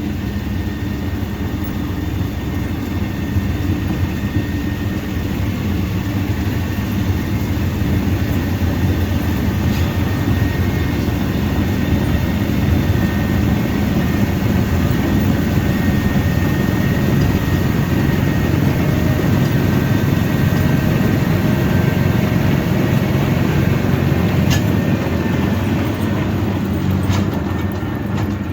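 Snowblower running steadily under load while clearing heavy, wet snow, a continuous rumble with a faint high whine.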